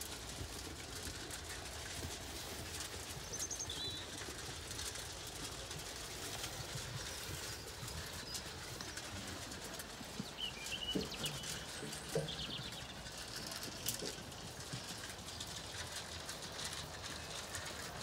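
Faint birdsong: a few short, high chirps and calls scattered over a quiet background, with a few low knocks about two-thirds of the way through.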